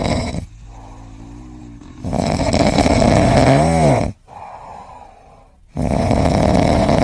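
A sleeping tabby cat snoring, with a long loud snore about every four seconds and a quieter whistling breath in between.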